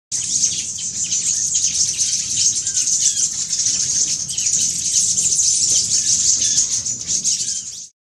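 Forest birds chirping and twittering in a dense high-pitched chorus, with short lower calls scattered through it; it cuts off suddenly near the end.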